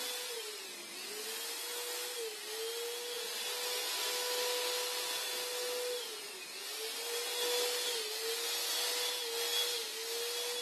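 Electric paint sprayer spraying a coat of Plasti Dip: a steady motor whine over the hiss of the spray, its pitch sagging briefly about six times.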